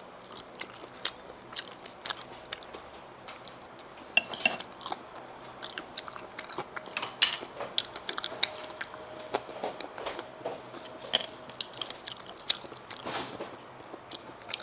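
A person chewing and biting sea snail and shellfish meat close to the microphone, with many short clicks and smacks and a few louder bursts of bites.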